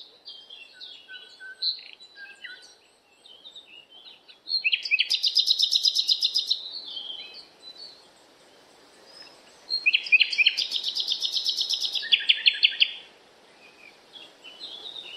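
Birds chirping over a faint steady background hiss, with two loud, rapid trilled songs, one about four and a half seconds in and a longer one about ten seconds in.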